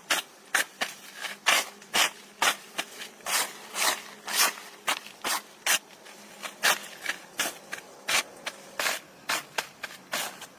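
An irregular run of short, sharp scraping sounds, about two to three a second.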